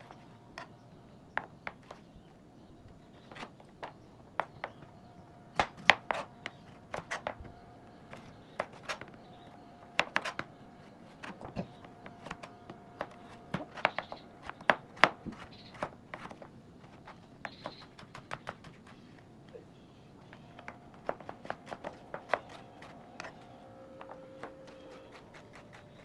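Kitchen knife slicing carrot on a cutting board: sharp knocks of the blade hitting the board, in quick irregular runs with short pauses.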